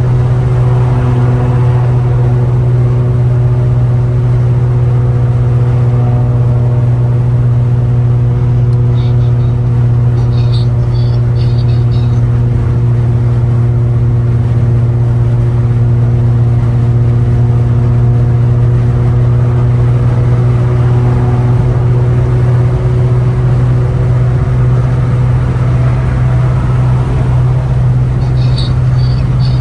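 Catless, straight-piped exhaust of a 2015 Ford Taurus Limited droning steadily at highway cruise, a deep constant hum with no revving.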